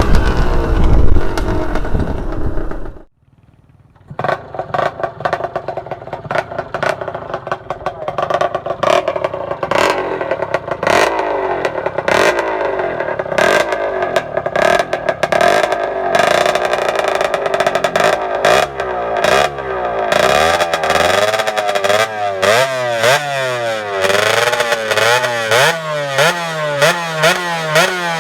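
Yamaha F1ZR two-stroke moped engine running through a Malaysia-style aftermarket exhaust, its pitch climbing as it accelerates. Near the end it is revved up and down repeatedly, about twice a second. It drops out briefly about three seconds in.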